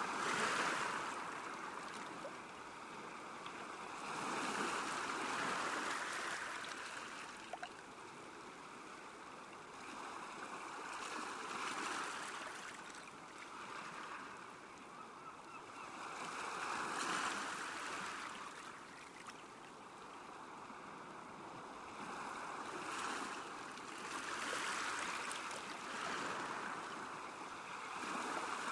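Small waves lapping on a lakeshore, the wash of water swelling and fading every few seconds.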